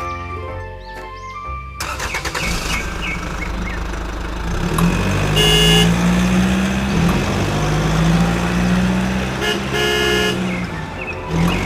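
A short run of music gives way to a motor vehicle engine running steadily, with a horn honking twice, a few seconds apart.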